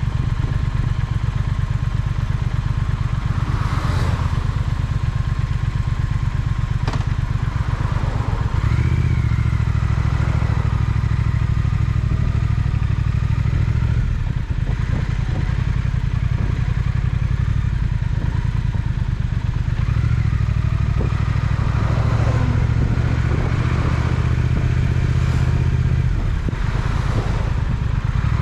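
Triumph Speed Twin's parallel-twin engine running steadily on the move, its exhaust pulsing evenly and swelling a little with throttle in stretches. Two sharp clicks are heard about four and seven seconds in.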